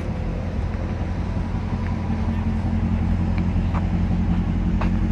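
Dodge Durango SUV engine idling: a steady low hum that grows slightly louder about halfway through.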